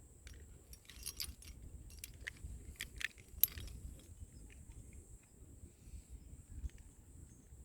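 Metal climbing hardware, carabiners and quickdraws on a harness, clinking and jangling in a cluster of sharp clicks in the first half, over a low rumble.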